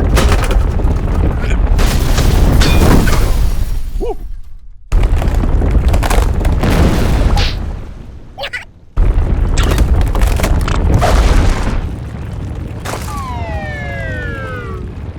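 Cartoon sound effects: three loud rumbling, crashing noises, each starting abruptly and lasting a few seconds, then a falling whistle that glides steadily down near the end.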